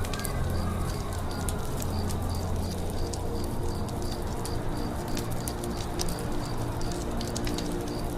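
Campfire crackling, with scattered sharp pops, over a forest background of birds: a high chirp repeating evenly about three times a second and low cooing.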